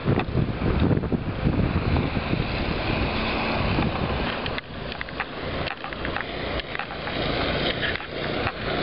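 Wind buffeting the microphone over street noise with a car engine running. The rumble is heaviest in the first half, with scattered sharp clicks in the second half.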